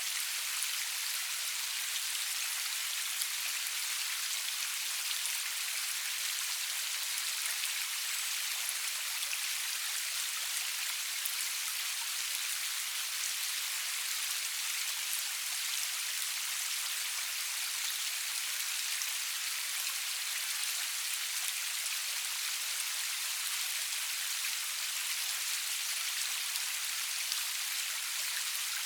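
Steady rain falling, a constant hiss with many fine, close drop ticks and no thunder.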